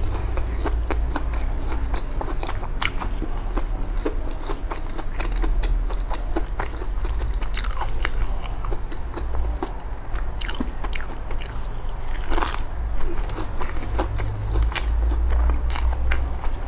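Close-miked biting and chewing of crispy fried food, with many short crunches and crackles throughout over a low steady hum.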